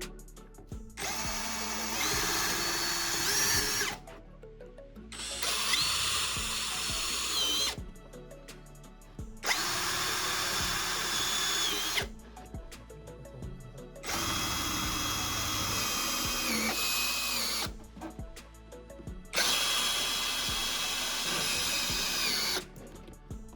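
Electric drill running in five separate runs of about two to three seconds each, a steady whine that shifts slightly in pitch within each run, with short pauses between.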